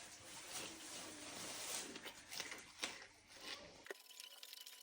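Faint chewing and crunching of someone eating raw vegetables, with a few sharper crunches. It cuts off suddenly about four seconds in.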